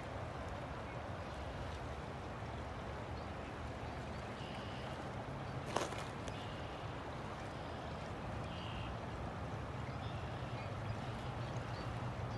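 River water flowing steadily, with a low rumble underneath. There is a single sharp click about six seconds in, and a few faint, short, high-pitched chirps.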